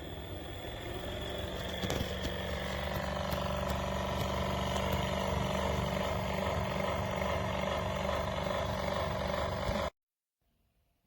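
A steady mechanical running hum, like an engine or motor, that grows louder over the first two seconds, holds steady, then cuts off suddenly near the end.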